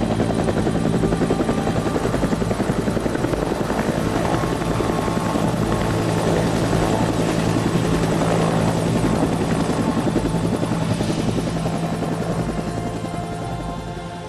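Aircraft flying close, a loud, steady engine drone with a rapid pulsing beat, fading away over the last couple of seconds.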